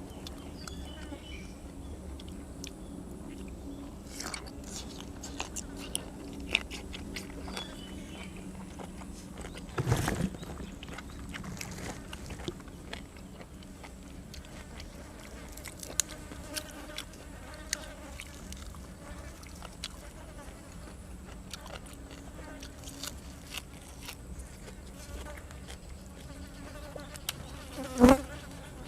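Close-up chewing and crunching of grilled cuttlefish and raw vegetables, with small clicks throughout, over a steady low buzzing hum. Two louder knocks come about ten seconds in and near the end.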